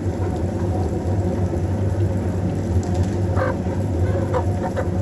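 Village chickens clucking, a few short clucks coming in the second half, over a steady low rumble.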